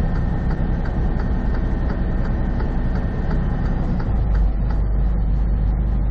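Semi truck's four-way hazard flashers ticking in a steady rhythm, really loud, over the steady drone of the truck's engine and road noise in the cab. The engine rumble deepens about four seconds in.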